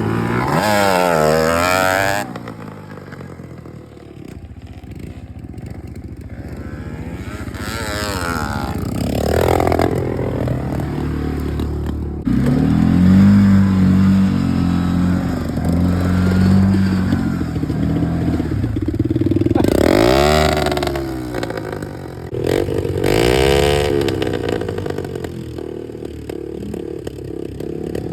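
Pit bike engine being ridden, revving up and dropping back several times, with a steadier lower running note through the middle stretch.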